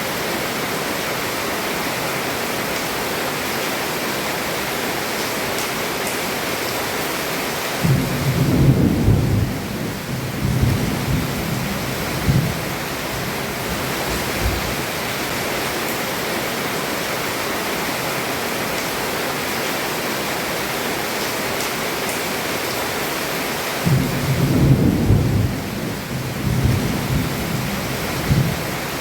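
Heavy rain falling steadily on a roof, with two low rolls of thunder, each lasting a few seconds: one about eight seconds in, the other about five seconds before the end.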